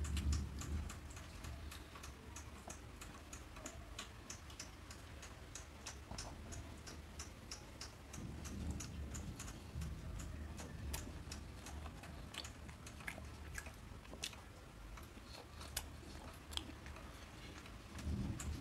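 A man chewing a soft bun dipped in ketchup close to the microphone, with many small wet mouth clicks and smacks. Low bumps sound near the start, around the middle and near the end.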